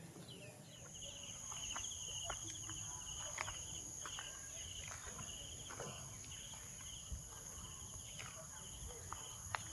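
Insects calling: a steady, shrill high tone sets in about a second in over a rapid pulsing trill, with scattered short taps and clicks.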